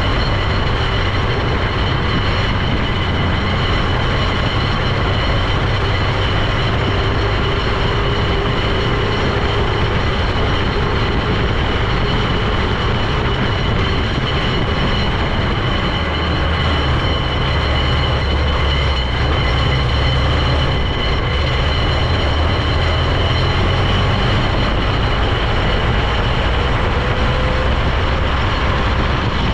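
The Eager Beaver running on the move: a steady heavy engine and drivetrain rumble with a constant high-pitched whine over it, the low drone shifting in pitch about halfway through.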